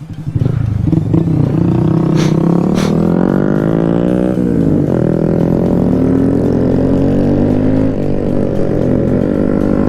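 Honda Grom's 125cc single-cylinder engine running under way. Its pitch dips briefly about four seconds in, then climbs slowly as the bike picks up speed.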